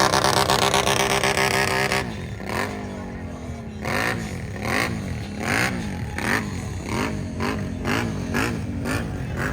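Off-road vehicle engine revving hard for about two seconds, then dropping back. It is then revved up and down over and over in a steady series of short rising-and-falling pulses.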